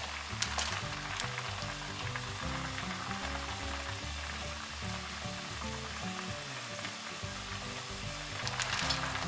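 Soy-based chicken braise (jjimdak) boiling hard in a pot on a gas burner: a steady bubbling sizzle, with a few sharp clicks about half a second in and again near the end as vegetables go in. Background music with low stepped notes plays underneath.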